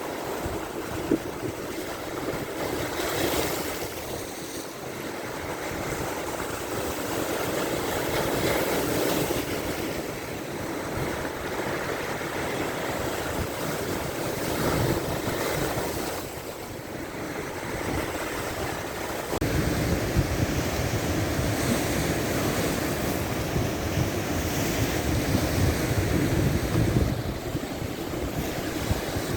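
Big lake waves surging and breaking in strong wind, in repeated swells every few seconds. Wind buffets the microphone with a heavy low rumble from about two-thirds of the way in.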